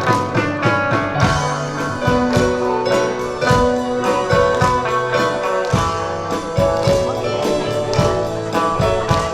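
Live band playing an instrumental passage between sung verses: guitar and bass over a steady beat, with no singing.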